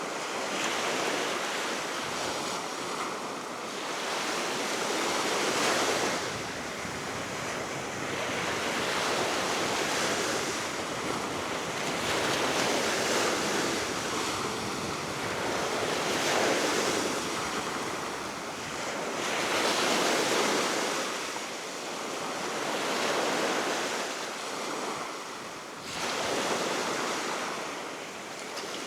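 Baltic Sea waves breaking on the shore below a cliff, the surf swelling and ebbing every few seconds, with steady wind that also catches the microphone.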